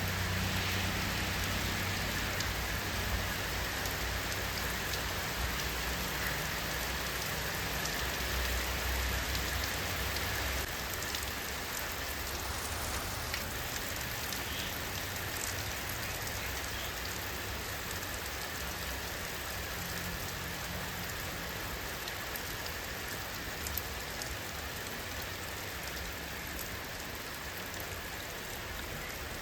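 Steady rain falling: an even hiss with scattered single drop ticks, and a low rumble under it during roughly the first third that then fades.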